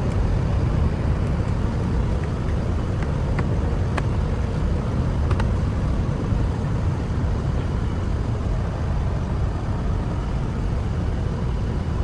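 Steady low rumble of motor-vehicle noise, with a few light clicks early in the stretch.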